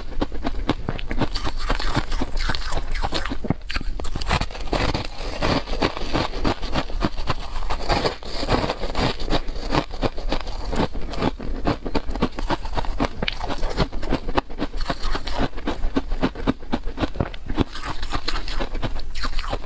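Close-miked crunching and chewing of crispy tartary-buckwheat snack strips: a dense, continuous run of crackly crunches and snaps.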